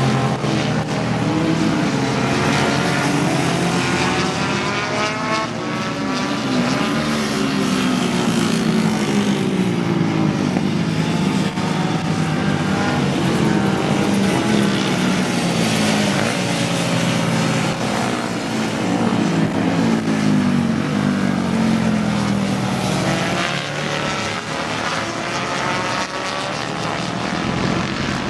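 Several vintage racing motorcycles at race pace, their engine notes overlapping, repeatedly rising and falling in pitch as they rev through gear changes and go past.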